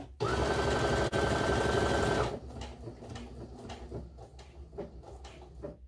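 Baby Lock Soprano computerized sewing machine stitching an automatic buttonhole. The motor whines and the needle runs fast for about two seconds, then the sound drops to much quieter, scattered clicks.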